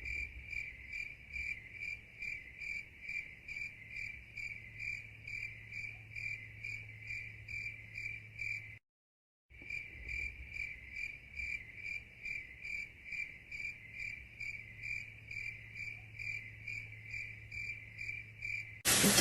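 Crickets chirping in an even, regular rhythm of about three chirps a second. The sound cuts out completely for a moment about halfway through, then carries on the same.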